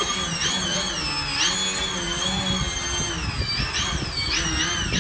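Electric model airplane motor and propeller whine, its pitch wavering up and down as the plane flies, with wind rumbling on the microphone.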